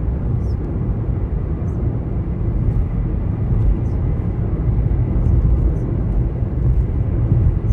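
Wind buffeting the microphone, a loud uneven low rumble, with faint short high chirps scattered through it.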